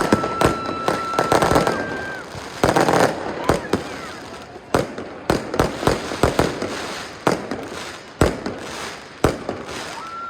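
Fireworks and firecrackers going off, a run of irregular sharp bangs and cracks, some close and loud. A steady high tone holds through the first couple of seconds and stops.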